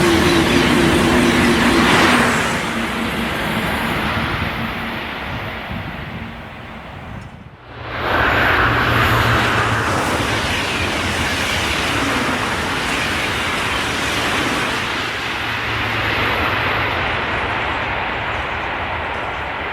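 High-speed TGV trains passing through at speed: a loud rushing rumble with a couple of steady tones that dies away. After a brief break about seven and a half seconds in, a second train's rush comes in loud and slowly fades.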